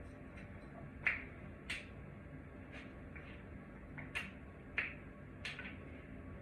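About six sharp clicks and light knocks at irregular intervals, over a faint steady low hum.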